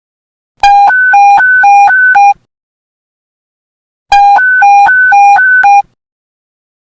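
Police panic-button alert tone: fast electronic beeps alternating between a low and a high pitch, sounding in two bursts of under two seconds with a short pause between.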